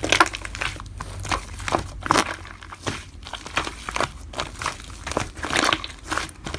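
Slime being squished and worked, giving irregular sharp crackling pops several times a second.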